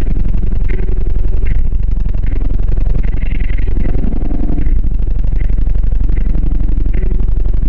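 Car audio system playing music loud, its two 8-inch FB Audio subwoofers dominating with heavy bass.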